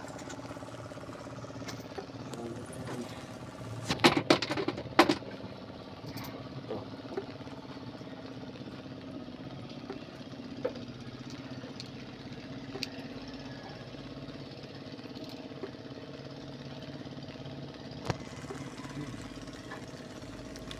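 Suzuki Multicab engine idling steadily, with a few sharp metallic clinks about four to five seconds in.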